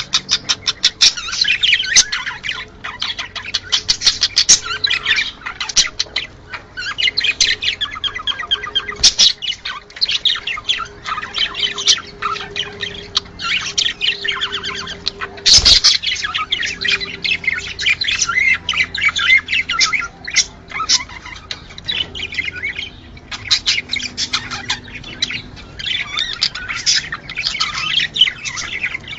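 A flock of budgerigars chattering and warbling, a dense run of rapid chirps and squawks, with one sharp click about halfway through.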